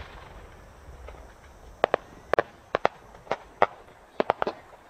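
Aerial fireworks: a deep thump at the start, then about a dozen sharp cracks and bangs in an irregular run over the next three seconds.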